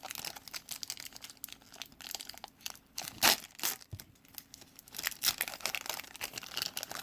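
A 1991 Score Football Series 2 card pack wrapper crinkling and tearing as it is ripped open by hand, in irregular crackles with a few sharper bursts around three and five seconds in.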